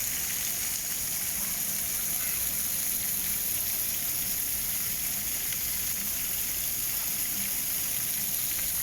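Steady rain falling hard, an even hiss with no breaks.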